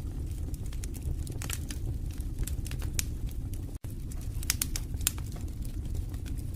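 Wood fire burning in a fireplace: irregular crackles and pops over a steady low rumble of flame. The sound cuts out for an instant about four seconds in.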